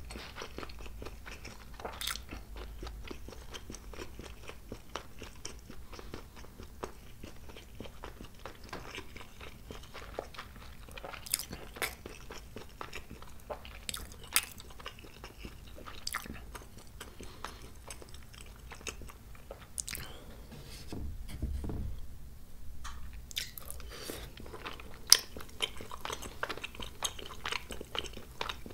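A person chewing a mouthful of food, with wet mouth clicks and smacks throughout and a few sharper clicks, the loudest about 25 seconds in.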